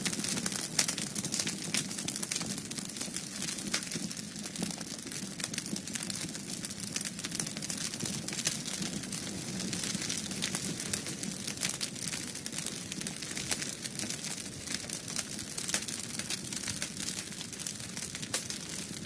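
Wood fire in a fireplace crackling, with frequent irregular pops and snaps over a steady low rumble.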